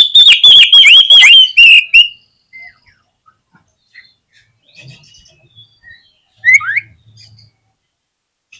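Oriental magpie-robin singing: a loud, rapid run of sweeping whistled notes over a held high whistle for about two seconds, then soft scattered chirps and one louder rising whistle later on.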